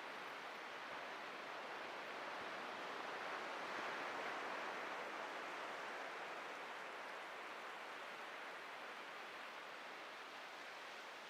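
Atlantic surf breaking and washing up the beach as a steady hiss. One wave swells to its loudest about four seconds in, then slowly fades as it recedes.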